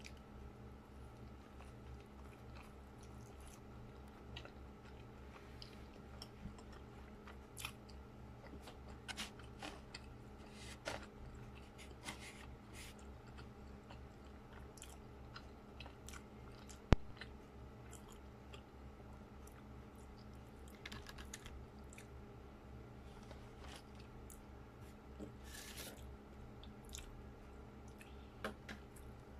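A person chewing a large bite of baked sushi wrapped in nori, with scattered small wet mouth clicks over a steady low hum. A single sharp click, the loudest sound, comes about halfway through.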